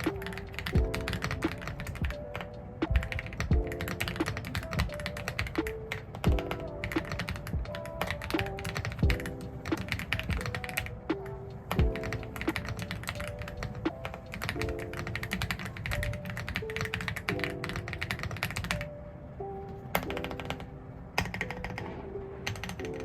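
Fast, steady typing on an Aula F75 mechanical keyboard with Reaper POM switches, keystrokes clacking densely with brief pauses near the end. Background music with a repeating melody plays under it.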